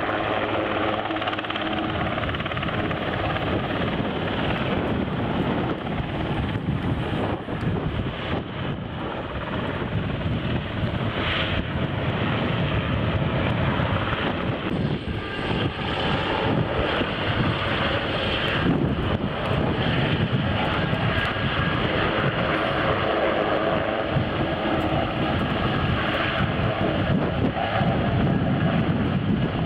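Aircraft engine running steadily, growing a little louder about halfway through.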